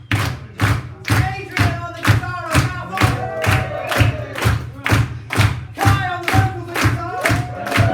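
Live band music with a steady, fast drum beat, about three to four hits a second, and voices singing over it.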